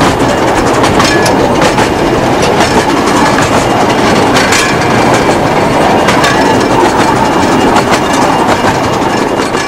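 Miniature light-railway train running along the track, its wheels clattering steadily over the rail joints.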